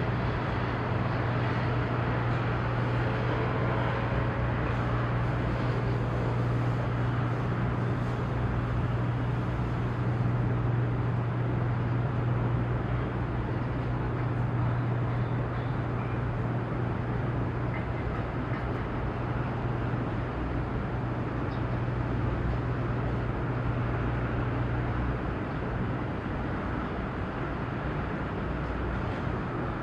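Steady low drone of marine engines from vessels berthing in the harbour, with a deep hum that eases about 25 seconds in.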